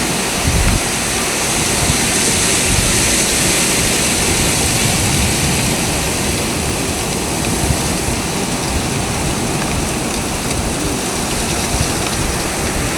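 Blizzard wind gusting hard, a loud steady rushing noise with uneven low buffeting.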